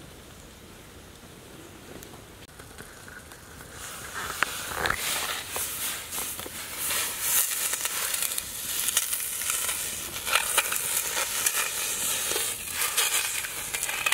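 A whole giant catfish lowered into a steel wok of hot liquid over a wood fire, sizzling and crackling loudly with many sharp pops from about four seconds in. Before that only a faint low crackle of the wood fire.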